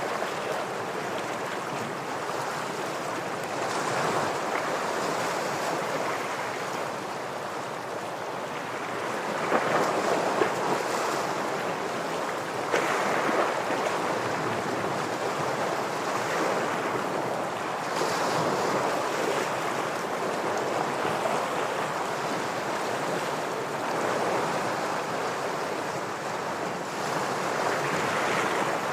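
Ocean waves breaking and washing against shore rocks. The sound is a continuous surf noise that swells and eases every few seconds, with a few brief louder peaks partway through.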